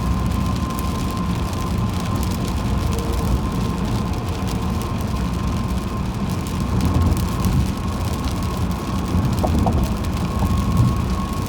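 Car driving on a rain-wet highway: steady road and tyre rumble, with fine ticking of rain and spray and a faint steady whine.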